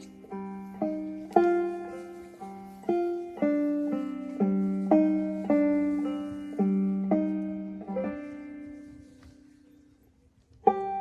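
Banjo played slowly, single notes and chords plucked and left to ring, the last one fading almost to silence about nine seconds in; brisk clawhammer playing starts again just before the end.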